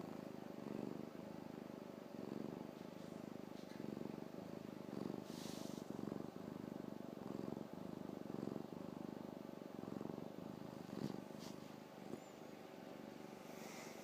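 Domestic cat purring steadily, the low purr swelling and fading in a regular rhythm about once a second with its breathing.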